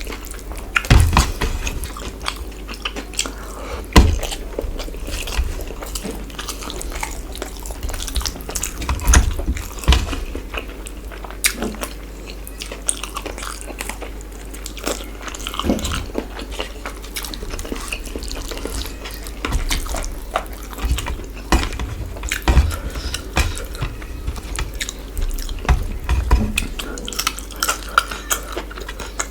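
Close-up chewing and mouth sounds of a person eating chicken curry with rice, with irregular short clicks and knocks throughout.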